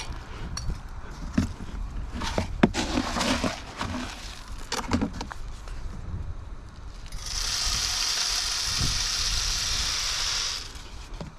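Clicks and knocks of a bird feeder being handled, then a steady hiss of birdseed pouring into the feeder for about three and a half seconds, which stops abruptly.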